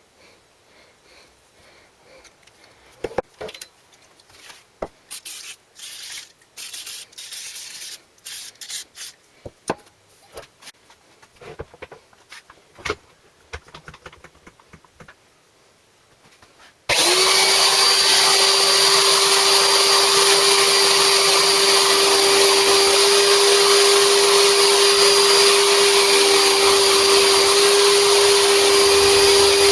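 Scattered clicks and knocks of parts and tools being handled. A little over halfway through, a high-speed electric motor switches on suddenly and runs steadily and loudly, with a constant whine over a rushing noise.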